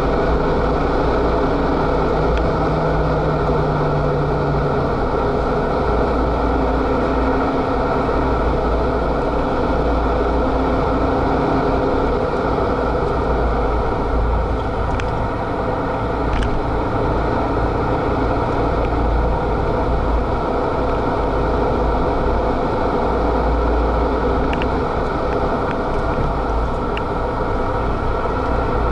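Renault Mégane RS265's 2.0-litre turbocharged four-cylinder engine running at speed, heard from inside the cabin over steady tyre and wind noise, with the engine note shifting as the revs change.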